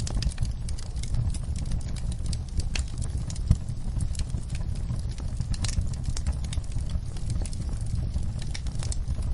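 Wood fire crackling in a fireplace: irregular sharp pops and snaps over a steady low rumble of burning, with one louder pop about three and a half seconds in.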